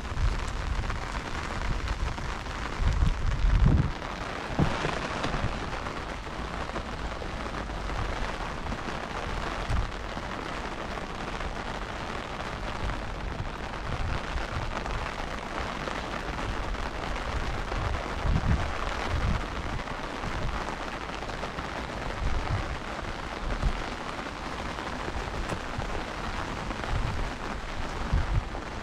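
Heavy rain falling, a steady hiss, with a few short low thumps, the loudest about three seconds in.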